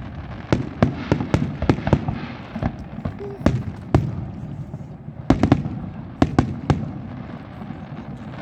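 Fireworks display: aerial shells bursting in a string of sharp bangs at irregular intervals. There is a quick run of bangs in the first two seconds, a few single ones, then another bunch from about five to seven seconds in.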